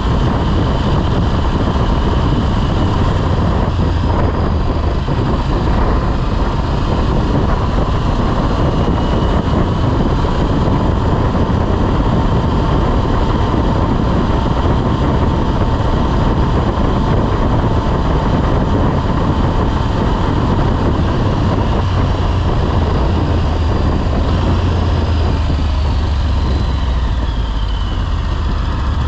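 Motorcycle ridden at road speed: steady wind rush and road noise on the microphone, with the engine running underneath and a steady whine, and a falling tone near the end.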